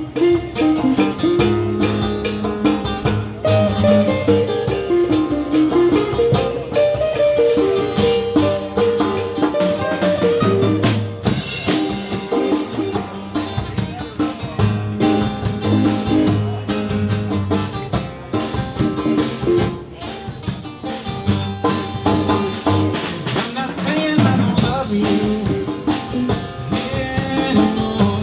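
Live blues band playing an instrumental passage: electric guitar carrying the melody over bass and drum kit.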